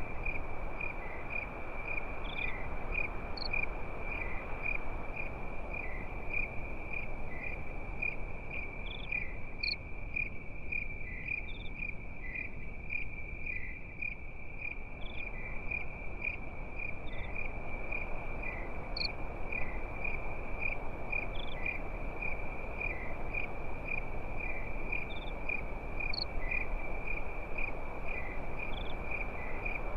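Crickets chirping in an even, unbroken run at one pitch, with short higher insect calls every couple of seconds, over the steady low rushing hiss of a campfire.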